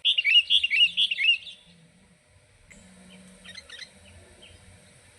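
Small bird chirping in a quick run of short notes for about a second and a half, then only a few faint chirps.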